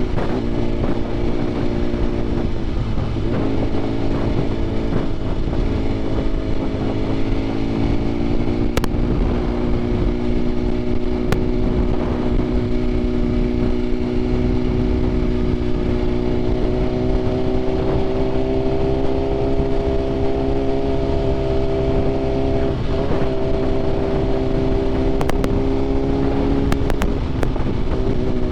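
Sport motorcycle engine running at a steady cruising pitch while riding, with rushing wind on the microphone. The engine note briefly dips and picks up again about three seconds in and again near the end.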